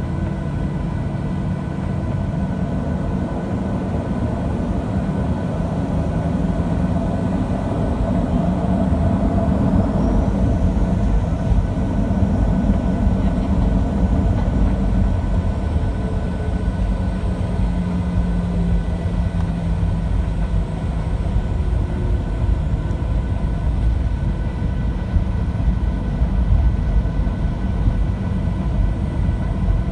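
Cabin noise inside a Boeing 737-700: steady drone of the CFM56 turbofan engines and airflow rumble, with faint steady fan whine tones, growing somewhat louder partway through.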